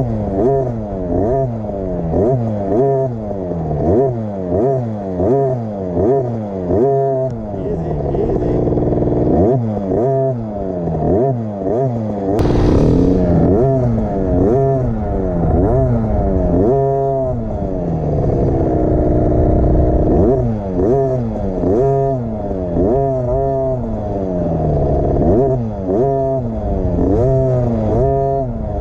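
A KTM 50 SX's 50cc two-stroke engine revved in short, repeated bursts, the pitch rising and dropping about once or twice a second as the throttle is opened and shut again and again, with a few longer, steadier pulls. This is the jerky throttle work of a beginner rider still learning the throttle.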